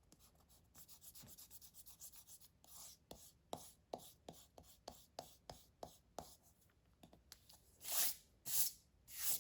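Black marker rubbing across paper in quick back-and-forth strokes while colouring in a drawing, with a few longer, louder strokes near the end.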